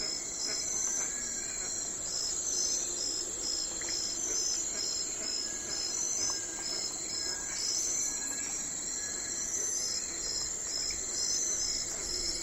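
Night forest ambience: a steady high insect chorus, with crickets chirping in short pulses about three times a second and occasional faint bird calls.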